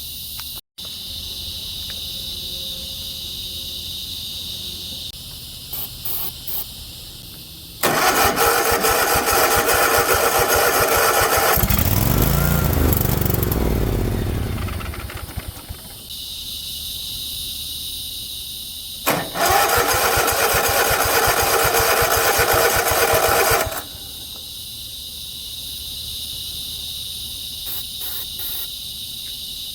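Cub Cadet zero-turn mower engine being cranked by its starter. It sounds about 8 seconds in, with a note that rises and falls around the middle as it briefly fires, then it is cranked again for about four seconds. This is a hard start after the mower has sat a while. Evening insects make a steady high buzz between the attempts.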